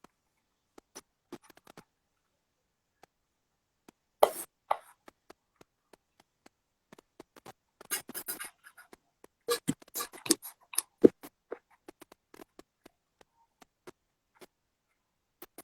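Scattered small clicks and taps with a few short rustling bursts, the sharpest knocks about four seconds in and near eleven seconds.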